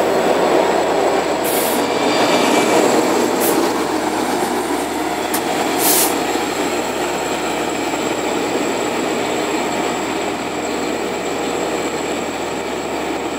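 Long Island Rail Road diesel push-pull train of C3 bilevel coaches rolling past on steel wheels, with a steady rolling rumble. The noise peaks as the trailing EMD DE30AC locomotive goes by about six seconds in, then slowly eases as the train moves away. A few short high hisses come in the first half.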